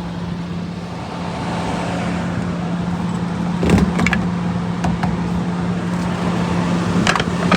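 Steady low mechanical hum with vehicle noise, broken by a couple of sharp clicks or clunks about halfway through and again near the end.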